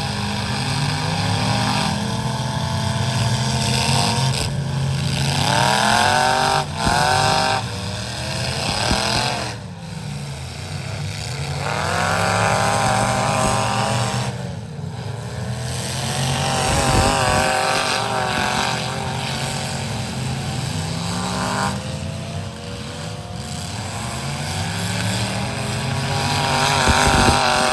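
Truck engines revving hard, the pitch climbing and falling back again and again.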